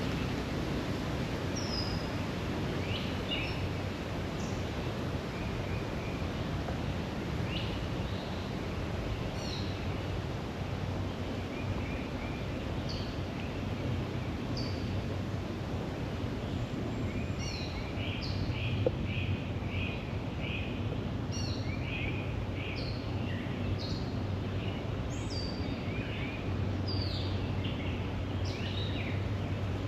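Woodland birds calling and singing in many short, high chirps over a steady rush of outdoor background noise. The chirps grow busier in the second half.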